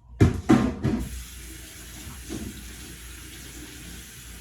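Water running steadily from a tap into a sink, after a few loud clattering knocks in the first second.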